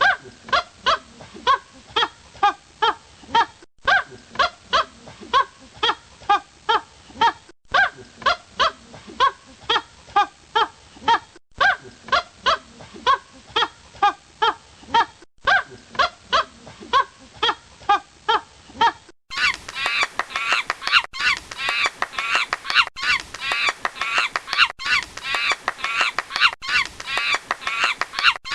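Rapid honking bird calls, about three a second, in a short stretch that repeats over and over; about two-thirds through, a brighter recording of the same quick honks takes over.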